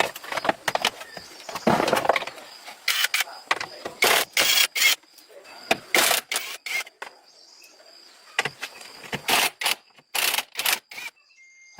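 An irregular series of short clicks, knocks and scraping sounds, like hand-tool or parts handling, with quieter gaps between them.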